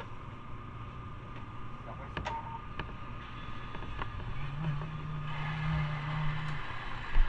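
Motorcycle engine running steadily, its pitch stepping up about four seconds in and holding for a couple of seconds before dropping back.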